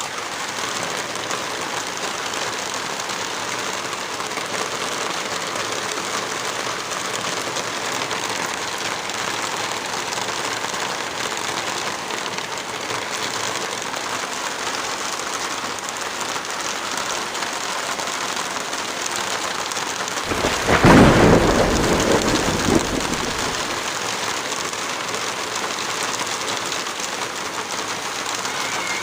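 Heavy rain falling steadily, an even hiss. About two-thirds of the way through, a sudden low rumble rises above the rain for two to three seconds and fades.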